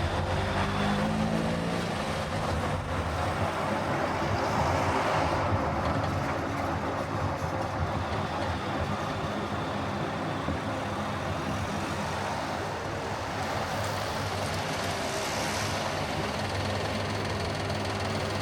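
Car driving on a highway: steady road and engine noise, with a rise in pitch in the first couple of seconds and swells about five seconds in and again near the end, as of traffic passing.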